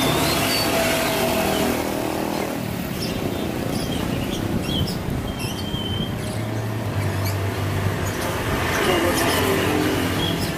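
Short, scattered bird chirps and whistles over a steady rumble of background noise with a low hum.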